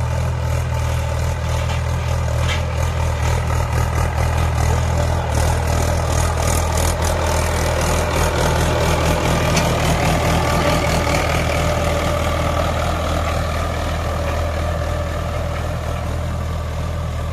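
Mahindra 475 DI tractor's four-cylinder diesel engine running at a steady speed, a deep, even throb.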